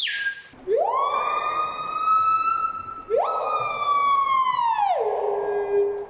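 A bird's long wailing calls, siren-like: two drawn-out notes, each sliding sharply up and then held steady. The second falls to a lower held note near the end.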